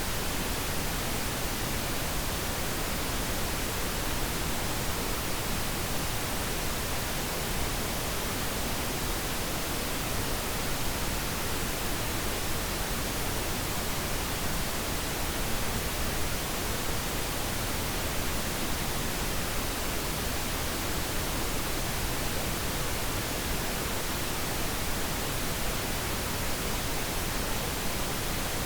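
Steady pink noise: an even, unbroken hiss across the whole range, at constant level.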